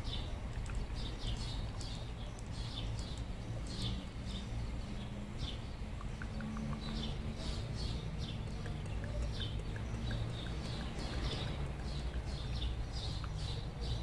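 Small songbirds chirping and twittering in quick, repeated short calls, over a steady low rumble.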